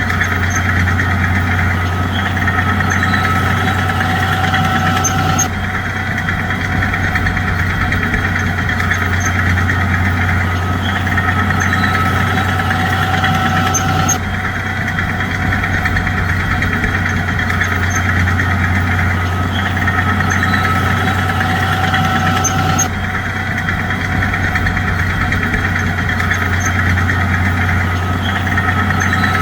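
Bulldozer's diesel engine running steadily, with a strong low hum. The sound shifts abruptly about every nine seconds and repeats the same pattern, like a short recording looped.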